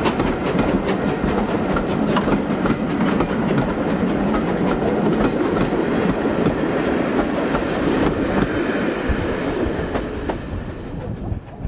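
A steam train running, with a fast, even rhythmic beat that eases off about ten seconds in.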